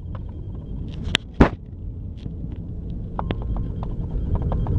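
Steady low rumble of a moving vehicle's engine and road noise, with a few sharp knocks a little over a second in.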